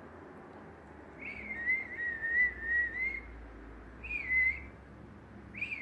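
A person whistling to call a pet budgie: one long wavering whistle, then two short whistles that fall in pitch.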